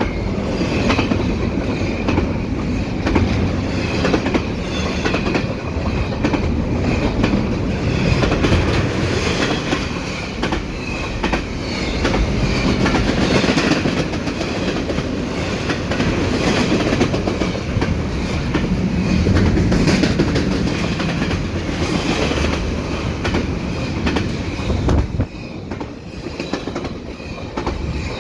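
Double-stack intermodal freight cars rolling past close by at speed: a steady loud rumble of wheels on rail with a dense clickety-clack of wheels over the rail joints. The noise dips briefly near the end, then continues.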